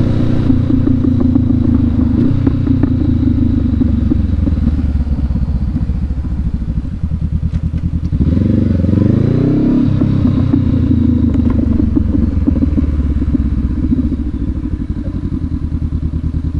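Honda CB500X's parallel-twin engine running at low speed, rising in pitch for about a second and a half about eight seconds in, then falling back to a steady low run.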